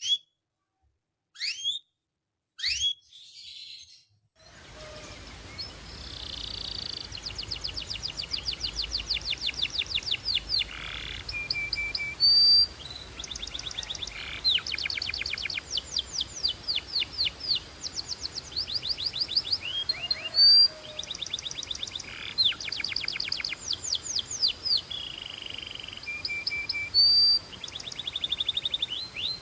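Belgian canary singing: a few separate chirps at first, then from about four seconds in a continuous song of fast trills of repeated notes, broken by short held whistles.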